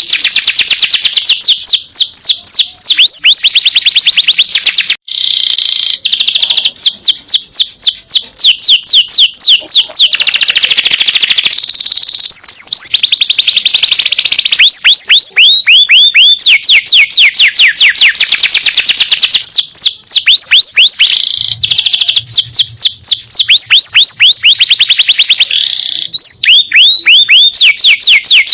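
Domestic canary singing in long rapid trills of repeated falling whistled notes, run after run, breaking off briefly about five seconds in.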